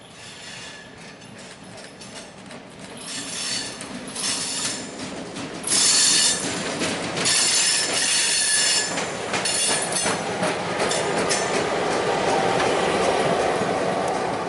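A train rolling past, its wheels squealing against the rail in several high-pitched bursts. A steady rolling noise of wheels on rail builds up toward the end.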